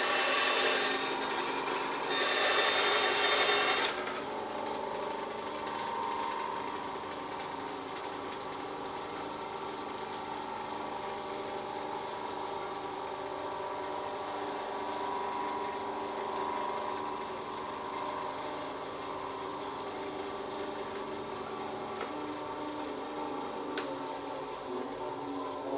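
Ryu RBS 8 bench bandsaw cutting wood in two loud passes in the first four seconds, then running on more quietly and steadily with a low hum.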